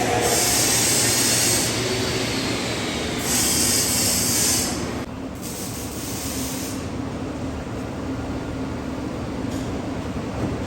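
Exhaust-shop tool noise under a car on a lift: two bursts of loud high hissing, each about a second and a half long, then a weaker one, over a steady machine hum.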